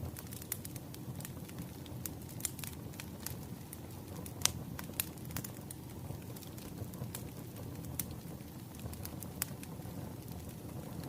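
Bonfire crackling and popping: a steady low rumble of burning wood with irregular sharp snaps, one louder pop about four and a half seconds in.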